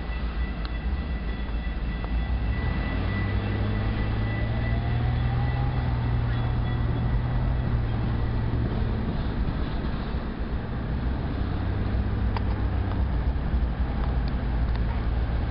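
A diesel-hauled freight train running along with a steady low engine drone and the rumble of rolling cars. A faint steady high-pitched tone, like wheel squeal, fades out in the first few seconds.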